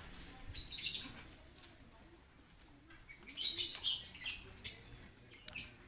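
Bird chirping in short, high bursts, with a longer run of chirps about three seconds in.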